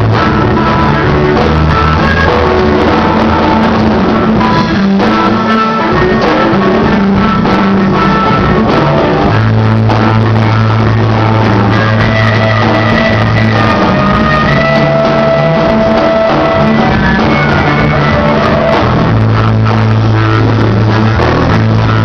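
Rock band playing with guitar, bass and drums, the bass holding long low notes and some long held higher notes over the top.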